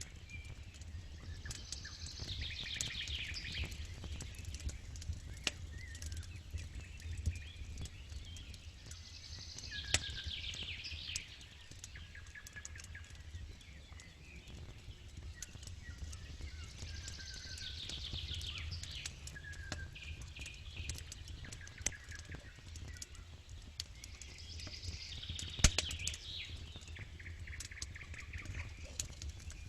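Campfire ambience: a wood fire crackling with scattered sharp pops, over a low rumble. A songbird repeats a falling, trilled phrase about every eight seconds.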